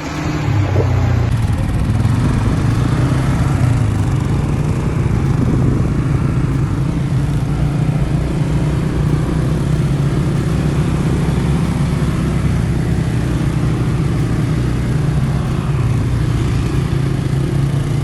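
A motor engine running at a steady, even speed, giving a constant low hum.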